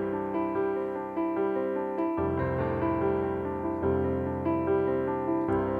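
Slow piano music between sung lines of a ballad, sustained chords changing every couple of seconds.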